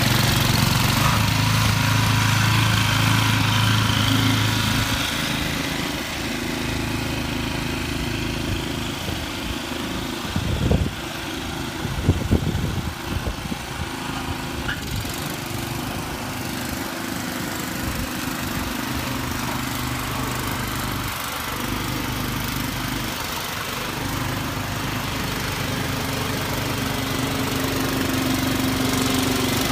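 Snowblower's small gasoline engine running steadily. Its hum drops in level about five seconds in, with a couple of brief louder surges around the middle, then it evens out again.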